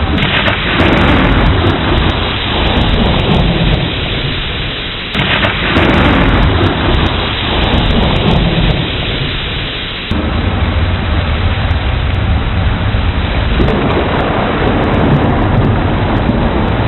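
Thunderstorm: steady heavy rain with rolling thunder. A thunderclap breaks near the start and another about five seconds in, each rumbling away over a few seconds, and low rumbling continues under the rain after that.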